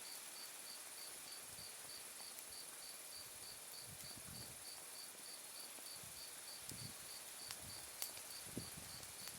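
Autumn night insects calling: one cricket-like insect chirping evenly about three times a second over a steady high trill from others. A few sharp pops from a burning wood fire come in the second half.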